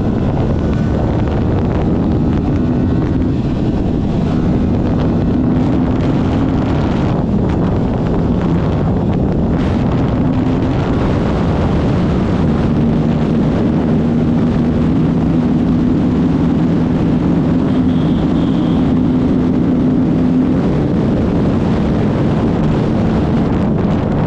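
Aprilia RS 457 parallel-twin engine cruising at highway speed through its stock exhaust, with heavy wind noise on the microphone. The engine note holds steady, changes pitch about halfway through, then settles again.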